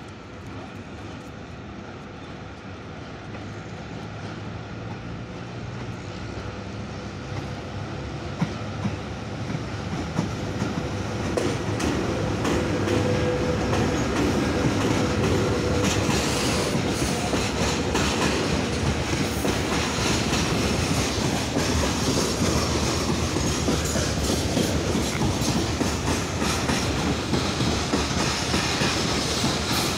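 VL80k electric locomotive hauling a freight train, approaching and passing beneath, then freight wagons rolling past with steady wheel clatter over the rail joints. The sound grows louder through the first dozen seconds and then stays loud, with a faint steady whine as the locomotive goes by.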